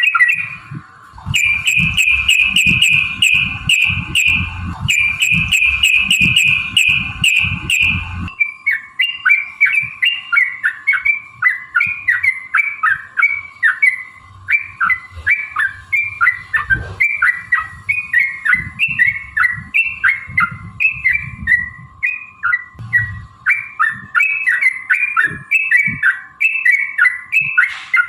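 Yellow-vented bulbul (trucukan) singing. For the first eight seconds or so it gives fast, rolling runs of repeated notes, then switches to a long series of quick, bubbly rising-and-falling chirps, about two a second.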